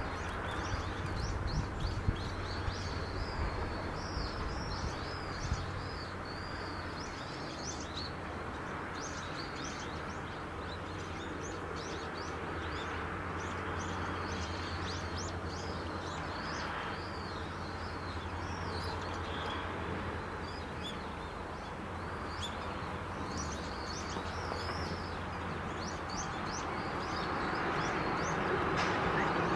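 Small birds chirping and twittering again and again over a steady low rumble of outdoor background noise. In the last couple of seconds the sound of an approaching train starts to grow.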